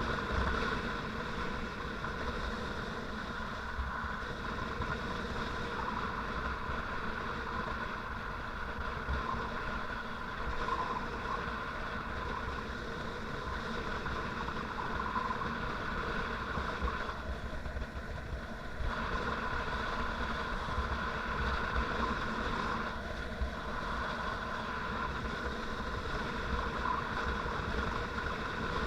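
Motorcycle engine running steadily while riding, with wind rumble on the microphone; the sound dips briefly about two-thirds of the way through.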